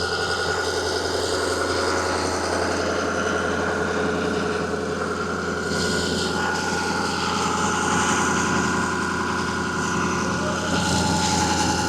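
Ford 6.0 Power Stroke V8 diesel engine idling steadily.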